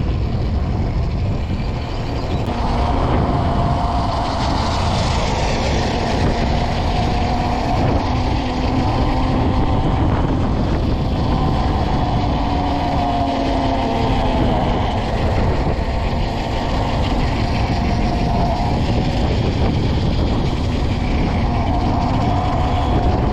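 Dirt bike on the move, with wind buffeting the rider's microphone over a steady low rumble and a faint wavering hum.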